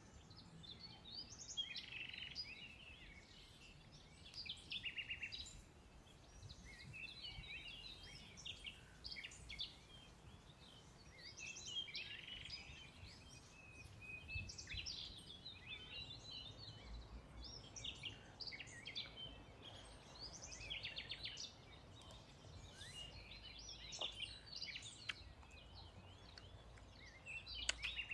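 Faint birdsong: several birds chirping and trilling on and off, over a low background rumble.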